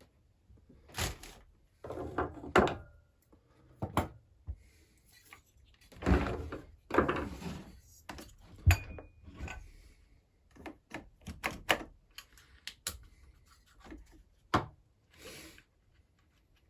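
Irregular knocks, clicks and scraping as a Husqvarna 346XP chainsaw is taken apart by hand, its parts and tools handled and set down.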